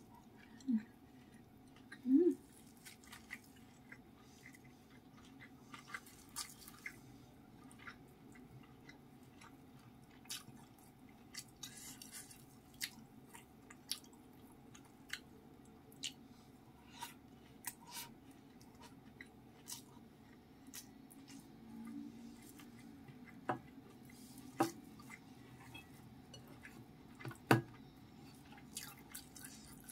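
Close-miked eating by hand: wet chewing and sharp mouth and lip clicks while eating rice with anchovy sambal and stink beans, with two short louder mouth sounds about one and two seconds in. There is also the soft squish of fingers working the rice in the bowl.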